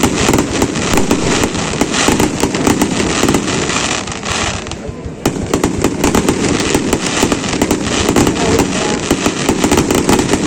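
Fireworks display: a dense, rapid string of sharp cracks and bangs, easing briefly about halfway through before the rapid crackling picks up again.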